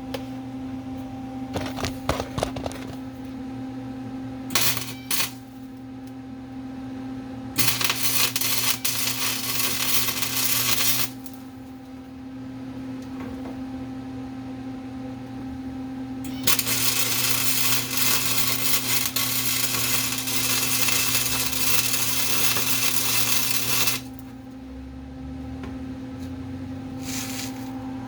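Flux-core wire-feed welder arc crackling and spitting in bursts: a few short tacks near the start, then two longer beads of about three and eight seconds, with a short tack near the end, over a steady hum. The welds are going poorly, the arc burning through the thin sheet metal or the plate.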